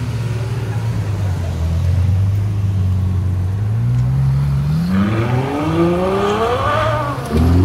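Ferrari 812 Superfast's V12 running at low revs, then revving up with a rising pitch as the car accelerates away from about four seconds in. The pitch dips at a gear change near the end and climbs again.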